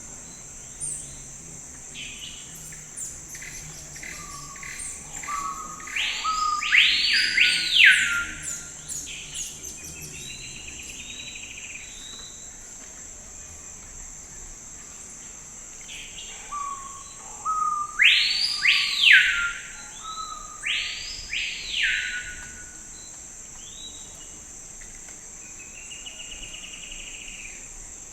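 A songbird singing the same phrase twice, about twelve seconds apart: a few short low notes and then loud arching whistled notes. A steady high-pitched insect drone runs underneath.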